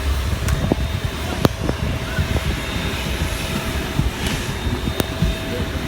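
Steady hum of a parked Boeing 777 airliner: a constant low rumble with a thin steady whine, broken by scattered knocks and clicks.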